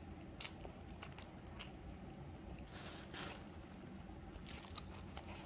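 Faint chewing and mouth sounds from someone eating with a full mouth, with a few light clicks and a short hiss about three seconds in.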